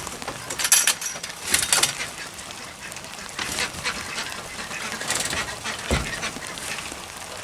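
Ducks quacking in several short, harsh bursts.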